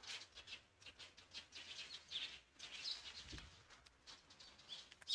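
Small birds chirping faintly, with short calls scattered throughout.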